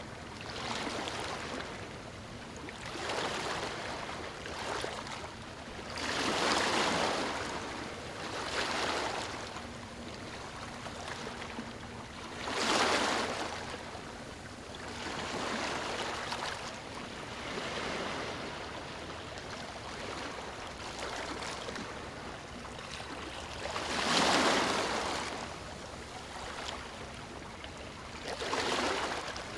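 Ocean waves on a beach: surf swelling and washing back in repeated surges every two to four seconds, a few larger breakers standing out among smaller ones.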